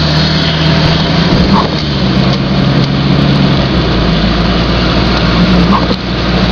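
Car driving, heard from inside the cabin: a steady engine drone over a broad hiss of tyre and road noise. The engine note drops about four seconds in.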